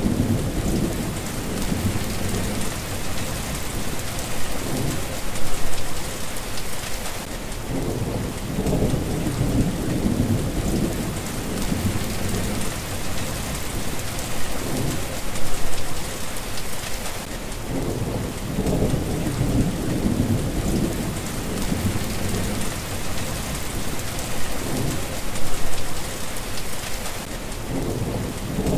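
Steady rain hissing, with low thunder rumbles that swell and fade several times, about every ten seconds.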